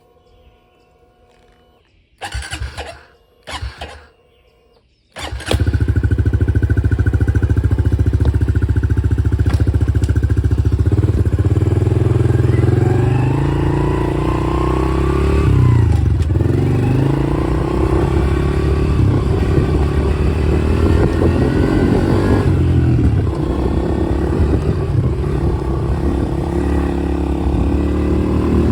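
Dirt bike engine starting about five seconds in after two short tries, then running loudly, its pitch rising and falling over and over as it is revved and ridden.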